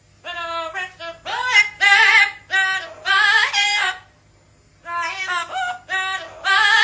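A parrot vocalizing in a sing-song, warbling voice, in several phrases with a short pause before the last.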